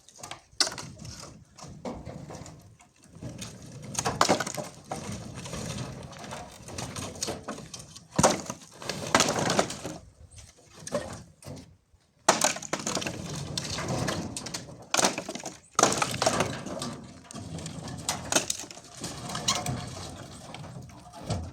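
Dry wood and branches cracking and crunching as they are broken up, a series of sharp snaps mixed with rough crunching, with a couple of brief breaks.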